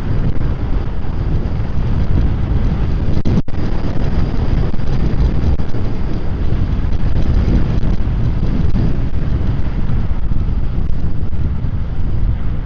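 Wind rushing over a wireless clip-on microphone with a windscreen, on a moving electric scooter: a loud, steady rumble heaviest in the low end. The audio drops out for a split second about three and a half seconds in.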